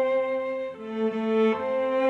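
Background music of bowed strings playing slow held notes.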